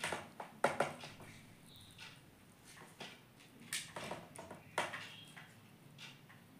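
Indian ringneck parrot making short, irregular scratchy sounds and taps, the strongest near the start and again around four and five seconds in.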